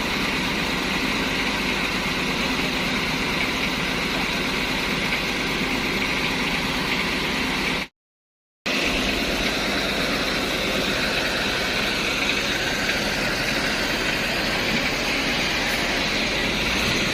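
A heavy truck's diesel engine running steadily at low revs. The sound cuts out completely for just under a second about eight seconds in, then resumes unchanged.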